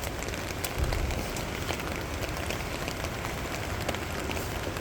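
Steady hiss of rain falling, over the rush of a flooded river running high and fast.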